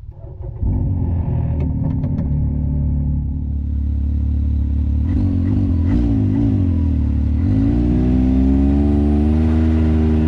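Side-by-side UTV engine running loud and steady, starting abruptly about half a second in, wavering in pitch around the middle, then rising in pitch as it accelerates over the last few seconds.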